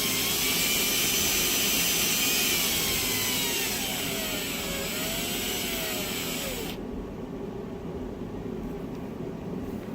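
A motor-driven tachogenerator spinning down, its whine gliding lower in pitch and wavering as it slows. The higher hiss cuts off suddenly about seven seconds in, leaving a low steady rumble.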